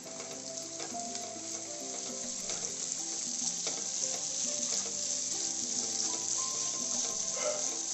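Sliced onions and tomato wedges sizzling in hot oil in a nonstick kadai while being stirred with a spoon, the sizzle growing a little louder; a soft instrumental tune plays underneath.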